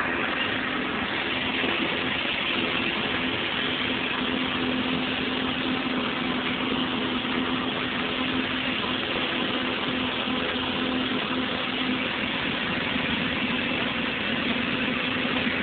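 Car engine idling: a steady low hum under an even hiss.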